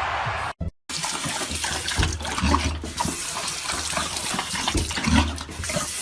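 Water running or splashing: a steady rushing noise with scattered small knocks.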